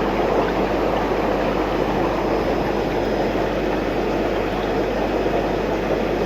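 Aquarium filter and water flow running: a steady rushing noise with a constant low hum underneath.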